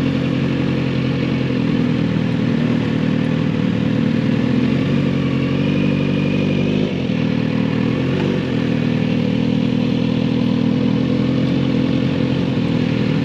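Kawasaki Z900RS inline-four engine and exhaust running steadily under way, with a brief dip in the engine note about halfway through before it picks up again.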